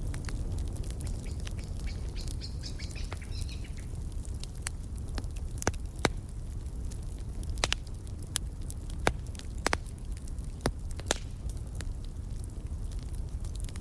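Wood fire crackling in a fireplace: a steady low rumble with scattered sharp pops and snaps. Birds chirp briefly about two to three seconds in.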